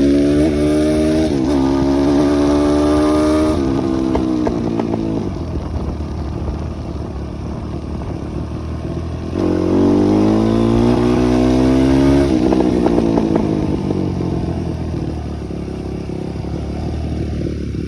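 Dirt bike engine accelerating hard twice, its pitch climbing and dropping back at a gear change, then settling to a lower, steadier run between and after the pulls.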